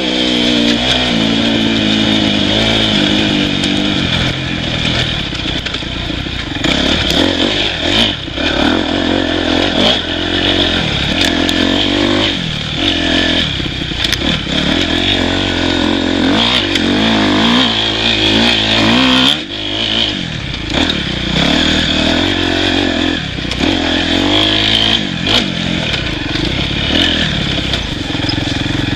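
Off-road motorcycle engine revving up and down as it is ridden, with the throttle shut briefly a couple of times, about eight seconds in and again near twenty seconds.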